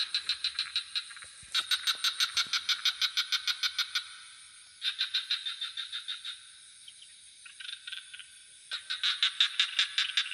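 Frogs calling in rapid pulsed trills, about nine pulses a second, in repeated bouts a second or two long with short pauses between. A steady high insect drone runs underneath.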